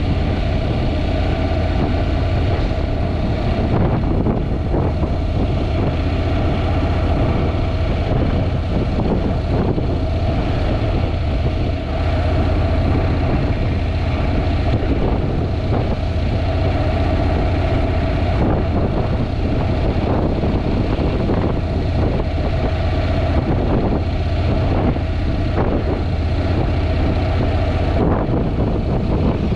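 Honda NC750X motorcycle's parallel-twin engine running steadily, with wind noise on the microphone over it.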